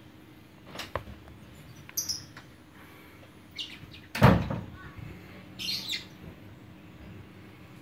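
A few short, high bird chirps, with a single dull thump about four seconds in.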